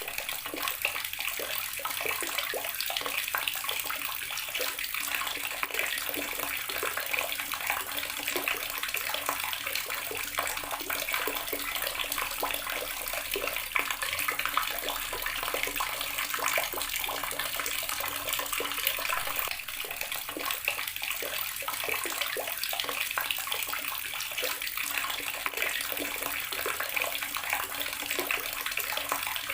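Outdoor water tap running steadily, its stream splashing and spattering onto a hard surface below.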